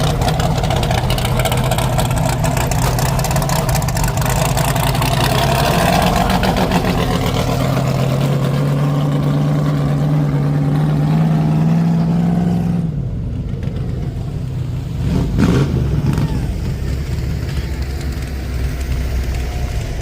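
Pulling truck's engine running hard at high revs, its pitch climbing steadily under load, then the throttle is let off abruptly about thirteen seconds in and the sound drops to a lower, quieter level.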